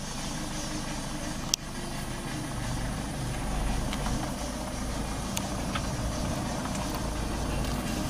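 Car engine running, heard from inside the cabin, a steady low rumble that grows a little stronger about two and a half seconds in as the car drives along. A single sharp click about one and a half seconds in.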